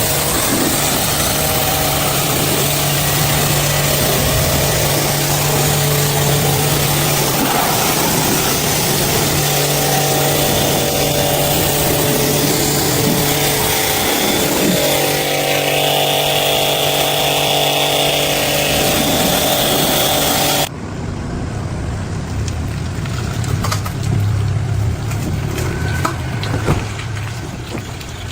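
Restored concrete mixer running with a loud, steady mechanical noise and hum, which cuts off abruptly about 21 seconds in and leaves a quieter clatter.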